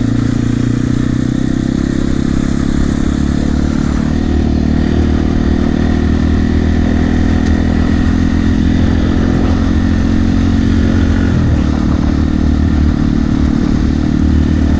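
Yamaha TT-R250 dirt bike's single-cylinder four-stroke engine running steadily under way, held at an even pace with little change in pitch.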